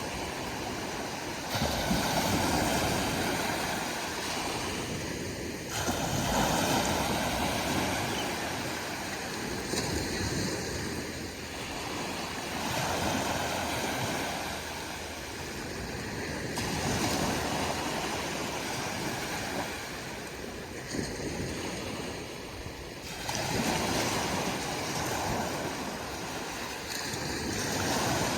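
Ocean waves breaking one after another, each a swell of rushing surf that rises and falls back every four to five seconds.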